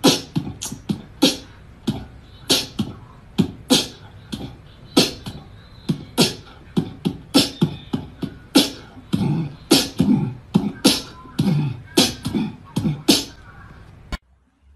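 An irregular series of sharp taps and knocks, about two to three a second, some with a dull thud, stopping abruptly near the end.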